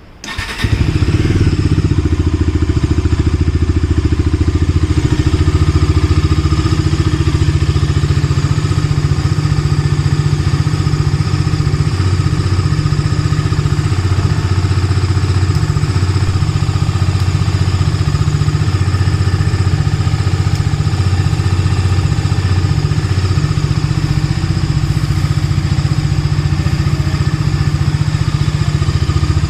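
Bajaj Dominar 250 motorcycle's single-cylinder engine started: it fires about half a second in and settles at once into a steady idle.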